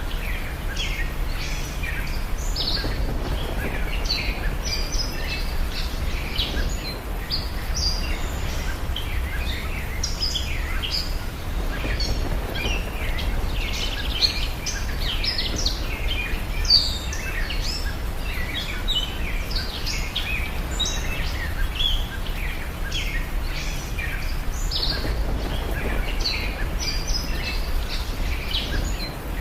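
Birdsong ambience: many small birds chirping in quick, overlapping short calls, over a steady low background rumble.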